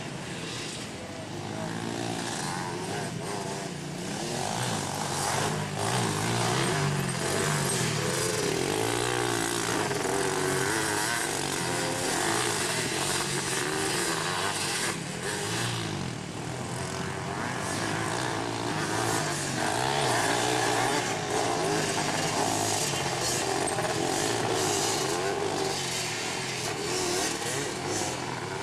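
Several off-road racing engines on three-wheelers and junior quads revving hard as they race around a motocross track, their pitch rising and falling repeatedly with throttle and gear changes.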